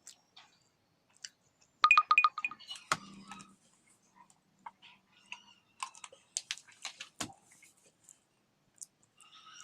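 Eating sounds: a quick run of about six ringing clinks, like a utensil against a dish, then a knock and a scatter of sharp clicks and crunches.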